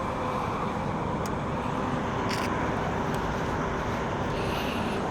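Motorcycle engines running steadily at low speed.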